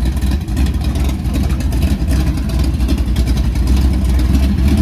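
Loud car engine running with a deep, steady rumble.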